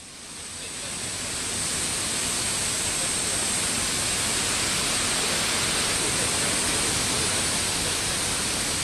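Rushing water of a mountain stream: a steady hiss that fades in over the first second or two, then holds level.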